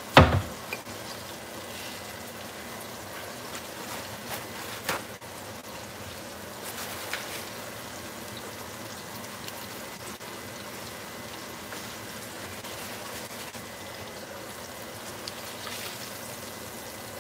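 Thick pork chops frying in oil in a skillet, a steady sizzle, with a few light knocks of plates and utensils.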